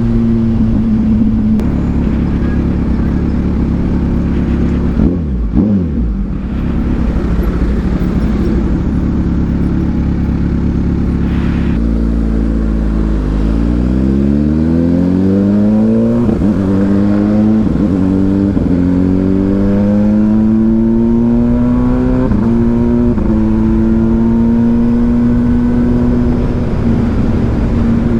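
Kawasaki Ninja 1000SX inline-four with an AR aftermarket exhaust running at a steady pace, with a brief dip and rise in revs about five seconds in. From about halfway it accelerates, the revs climbing and dropping back at several upshifts, then it settles into a steady cruise.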